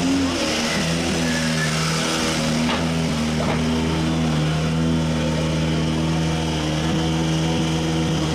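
World Rally Car engine running at a steady, held pitch.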